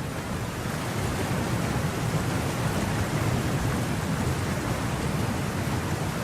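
Heavy rain pouring down: a steady, dense hiss with a strong low rumble underneath.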